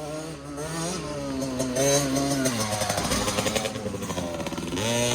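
Small youth dirt bike running on the track, climbing in pitch as it gets on the throttle about a second in, easing off in the middle, and rising again near the end.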